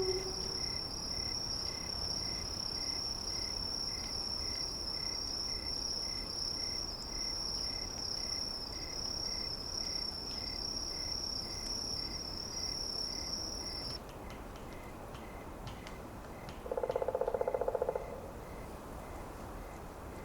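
A steady, high, cricket-like insect trill over a soft steady hiss, alongside a slower repeated chirp about two to three times a second. The trill cuts off abruptly about two-thirds of the way through, and soon after comes one short, low, buzzing animal call lasting just over a second.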